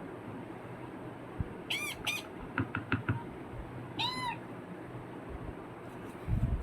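Ring-necked parakeet chicks calling to be fed: two short arching squeals about two seconds in, a few quick peeps right after, and another squeal at about four seconds. A low thump near the end.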